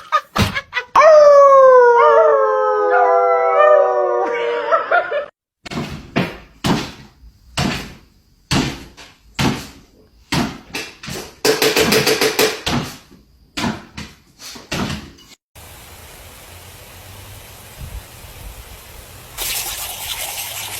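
A dog howling: one long cry that slides down in pitch, followed by a string of short, sharp sounds.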